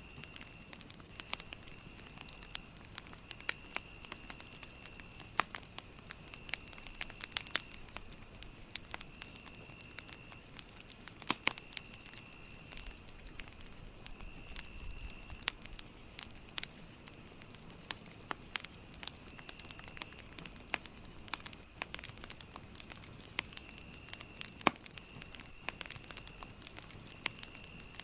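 Campfire crackling, with irregular sharp pops and snaps over a soft hiss. Behind it runs a steady high-pitched chirping that pulses about three times a second, with a second high trill that comes and goes.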